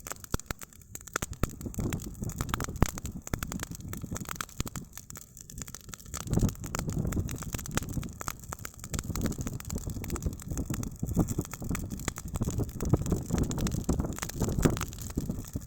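Campfire burning, the wood crackling with many sharp pops, over a low rumble that swells and fades.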